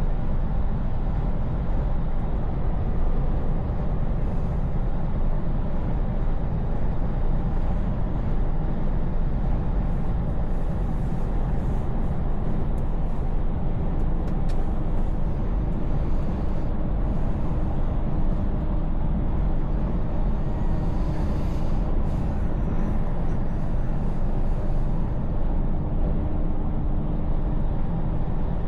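Scania V8 diesel truck running steadily while cruising, a continuous low engine rumble with road and tyre noise.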